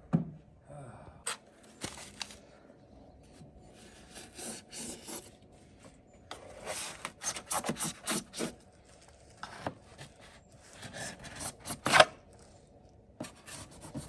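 Short scraping, rasping strokes in uneven bursts, with one sharp louder stroke about twelve seconds in: foam insulation being cut and scraped out of the wall opening by hand.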